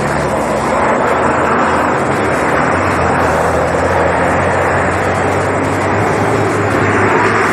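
A motor vehicle's engine running steadily under a loud, even noise.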